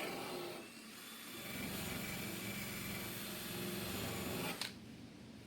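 Handheld power sander running against the metal leg of an old cart, a steady grinding whir that cuts off about four and a half seconds in.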